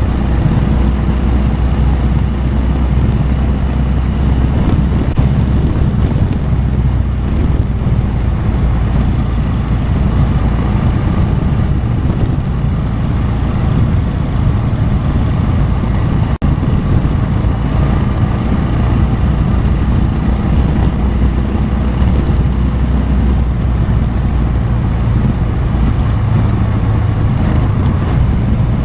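Motorcycle engine running steadily while riding, with wind noise on the microphone. The sound cuts out for an instant about halfway through.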